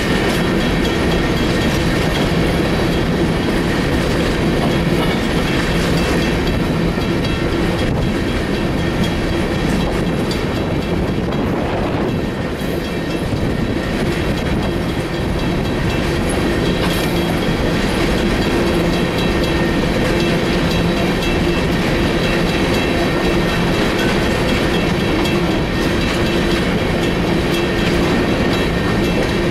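Coal train's open-top hopper cars rolling past, a steady noise of steel wheels running on the rails with a few faint steady tones in it.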